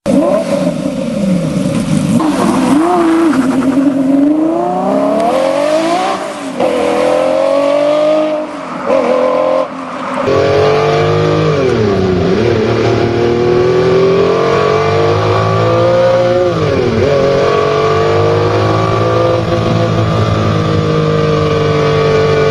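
Ferrari F50's V12 engine revving hard, its pitch repeatedly climbing and falling. About ten seconds in the recording changes, and the engine runs at steadier revs with two sharp drops and recoveries in pitch.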